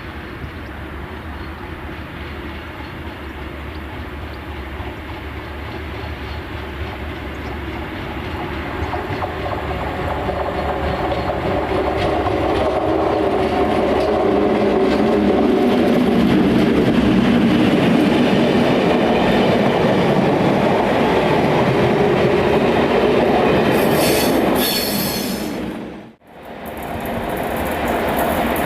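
Diesel-hauled freight train passing, growing louder over the first fifteen seconds or so as it approaches, then a steady rumble and clickety-clack of wagon wheels over the rail joints. A brief high wheel squeal comes near the end, and the sound cuts out for a moment before returning.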